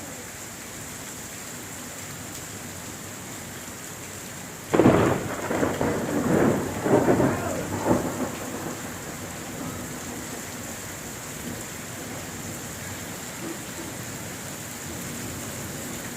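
Steady summer rain falling, with a sudden clap of thunder about five seconds in that rumbles on for three or four seconds before fading back under the rain.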